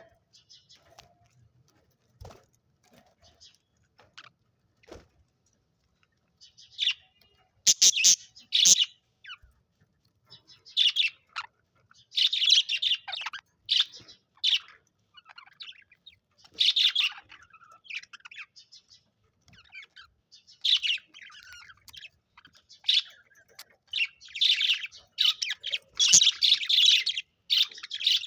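Budgerigars chirping: a few faint clicks at first, then, from about a quarter of the way in, short high chirps in repeated bursts.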